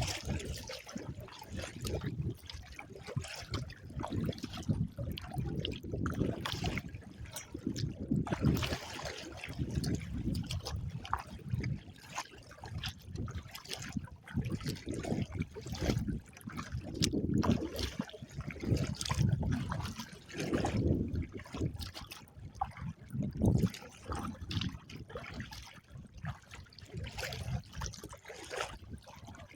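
Water splashing and trickling off a kayak paddle and against the hull as it is paddled, in uneven surges, with wind gusting on the microphone.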